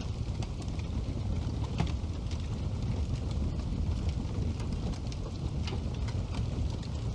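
Wood fire burning in a fireplace: a steady low rumble of flames with scattered crackles and pops, one sharper pop a little under two seconds in.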